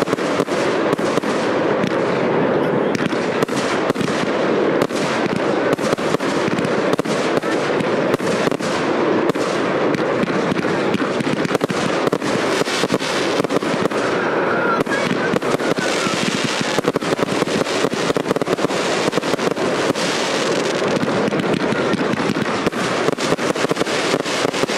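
Fireworks display with aerial shells bursting in rapid succession: a dense, continuous run of bangs and crackling with no pause.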